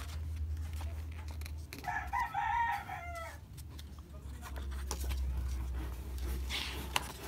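A single drawn-out animal call, about a second and a half long, that wavers and then falls in pitch at the end, over a low steady hum. A sharp click comes near the end.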